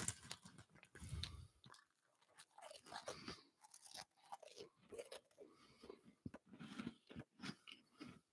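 A person chewing Cheetos, faint irregular crunches.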